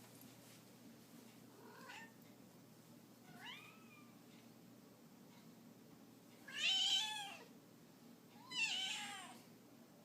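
A deaf cat, just woken, meowing: two faint short meows, then two much louder, drawn-out meows about two seconds apart in the second half.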